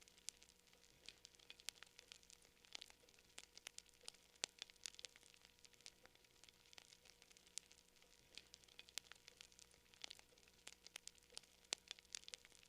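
Wood fire crackling, with frequent irregular small snaps and pops over a faint hiss.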